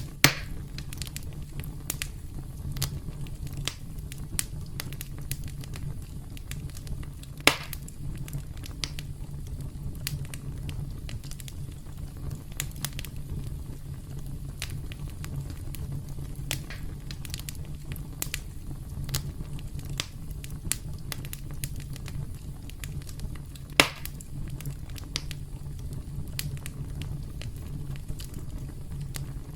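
Campfire crackling: a steady low rumble of burning wood with frequent small pops, and three sharp louder pops, one right at the start, one about a quarter of the way in and one about four-fifths of the way through.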